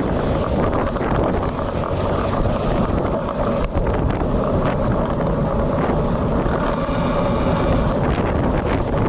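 Strong wind buffeting a bike-mounted action camera's built-in microphone, mixed with tyre and road noise from riding on a wet road. A faint high-pitched whine comes in briefly about seven seconds in.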